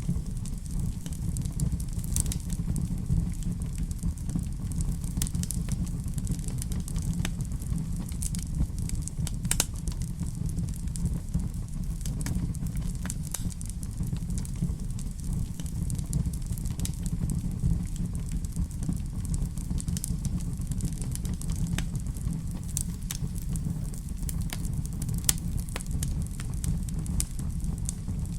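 Fireplace wood fire burning: a steady low rumble of the flames with irregular small crackles and pops throughout.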